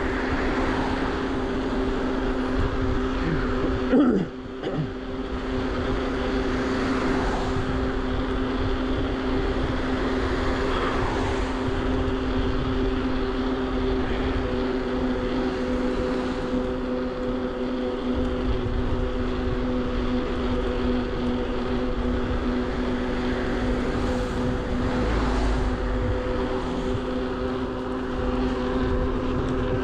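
Bafang BBSHD mid-drive e-bike motor whining steadily under power, with a higher note joining about halfway through, over a low rumble of wind and tyre noise. A brief loud knock comes about four seconds in.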